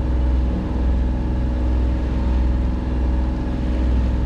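A sailboat's engine running steadily under way, a low, even hum.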